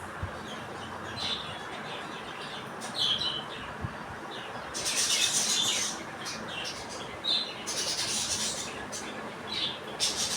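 Young budgerigars calling: short high chirps every second or two, with two longer harsh squawking bursts about five and eight seconds in.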